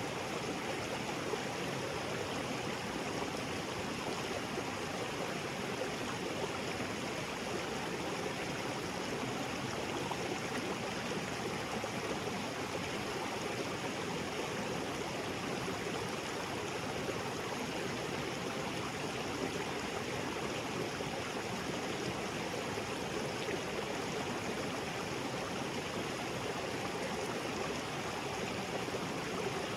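Small waterfall splashing into a rocky jungle creek, with the stream flowing: a steady, even rush of water with no changes.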